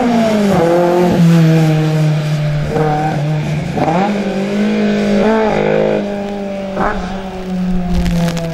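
Fiat 600 race car engine revving hard, its pitch rising and falling several times as the throttle is lifted and reapplied.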